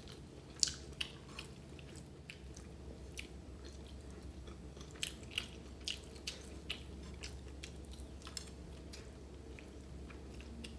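A person chewing and eating chicken biryani close to the microphone: soft, irregular mouth clicks and smacks, with a few sharper ones scattered through.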